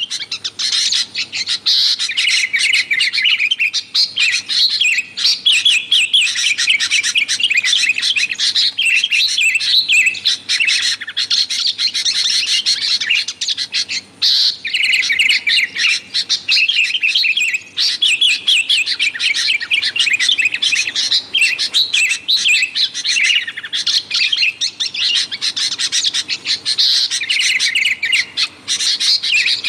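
Sooty-headed bulbuls (kutilang) calling noisily in a rapid, nearly unbroken stream of chirping notes, with only brief pauses.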